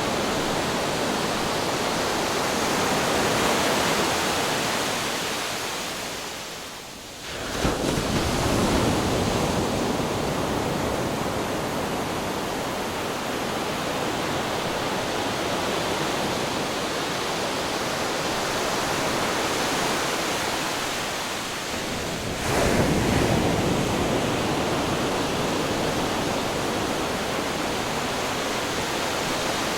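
Ocean waves crashing against rocks, with a continuous rush of surf. The surf falls back briefly, then a wave strikes suddenly about seven and a half seconds in and another about twenty-two seconds in.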